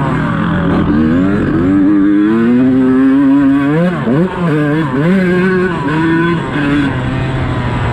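Motocross dirt bike engine revving under load, its pitch climbing and falling as the throttle is worked, with a few quick throttle chops and pickups midway.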